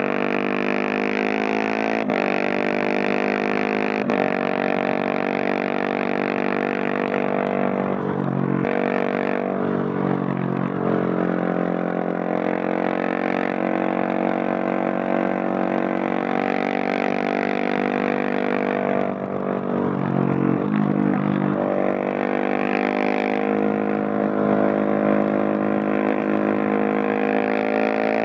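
Husqvarna 701 Supermoto's single-cylinder engine running under way through a Leo Vince Nero stainless exhaust. The engine note holds steady, dipping and picking up again twice, about a third of the way in and again about two-thirds in.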